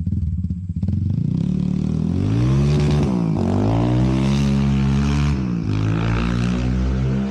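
Loud modified engine with a larger intake, 50 mm throttle body and tune, accelerating hard away: its pitch climbs, drops sharply about three seconds in as it shifts up, climbs again and drops once more near the end.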